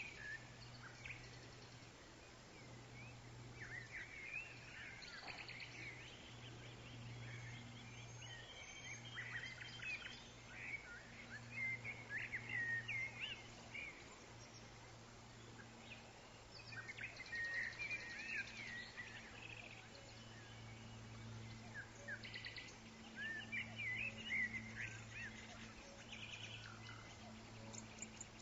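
Woodland songbirds chirping in scattered clusters of short, quick up-and-down notes and brief trills, over a faint steady low hum.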